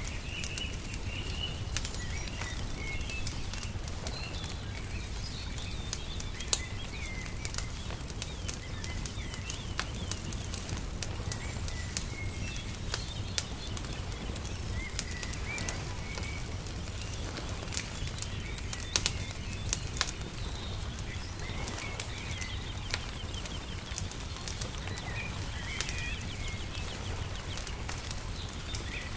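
Wood fire crackling with sharp, irregular pops, while small birds chirp in short calls. A steady low rumble runs underneath.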